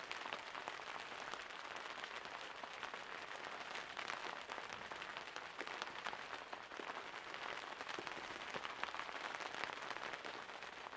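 Steady rain: a dense, even patter of countless small drops striking a surface.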